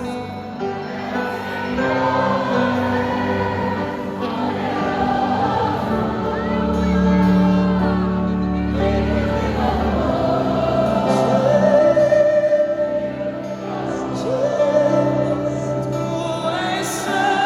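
Live Christian gospel music: singing over sustained instrumental accompaniment.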